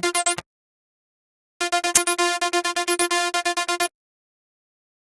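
Harmor synthesizer patch playing a fast run of short, evenly repeated bright notes, about eight a second, in two bursts that stop abruptly with silence between.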